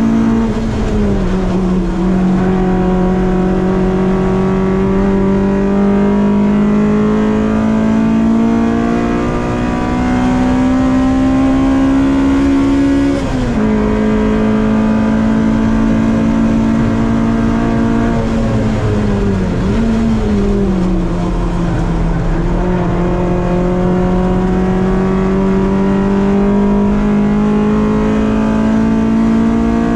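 Honda Civic race car's B-series VTEC four-cylinder engine at high revs, heard from inside the cockpit, pulling hard with the pitch climbing slowly through the gears. The pitch drops suddenly at an upshift near the start and again about 13 seconds in, falls unevenly around 18 to 21 seconds as the car slows, then climbs steadily again.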